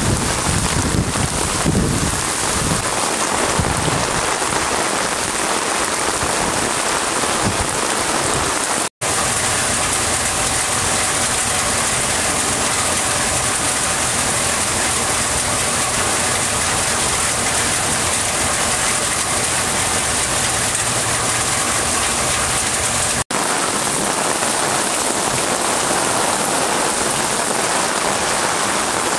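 Steady heavy rain falling, a dense even hiss, broken by two abrupt cuts about nine seconds in and again about twenty-three seconds in.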